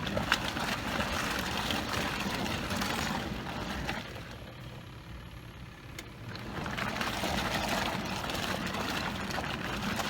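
Portable camp washing machine running its wash cycle, its motor humming as the water is churned. The sound drops away for about two seconds midway, then starts again.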